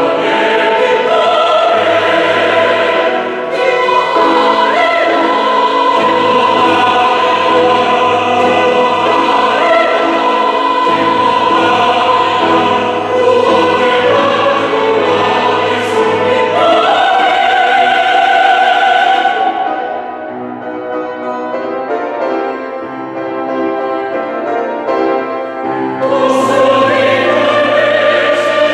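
Church choir singing a hymn anthem in sustained, full chords; it drops to a softer passage about two-thirds of the way through, then swells back up near the end.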